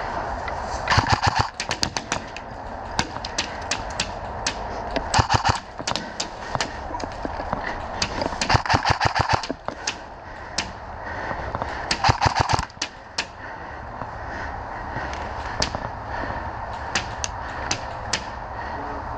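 Airsoft guns firing: four loud bursts of rapid shots about a second long, with scattered fainter single shots in between.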